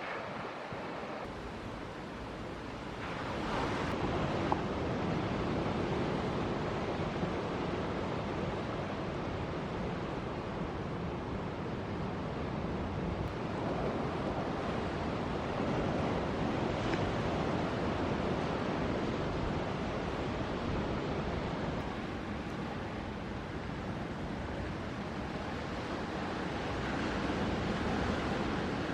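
Ocean surf breaking and washing in a steady rush. It swells louder about three seconds in, again around halfway, and near the end as sets of waves come through.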